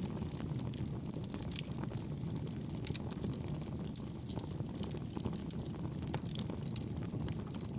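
Wood campfire burning: frequent small sharp crackles and pops over a steady low rumble.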